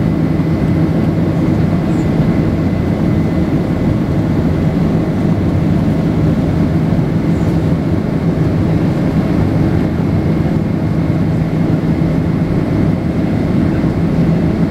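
Steady jet airliner cabin noise: engine and airflow rumble with a constant low hum and a faint steady high whine.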